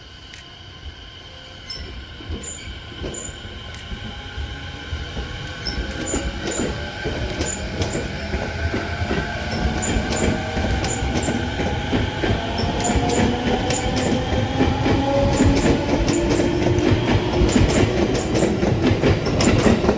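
MUE-Train test train pulling away under power, its unusual inverter whining in several tones that rise steadily in pitch as it speeds up, with wheels clicking over rail joints. The train grows steadily louder as it passes close by.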